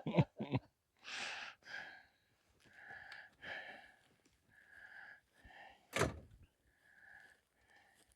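Cane knife hacking at brush: a run of faint, short chops about every half second to second, with one sharper, louder thunk about six seconds in.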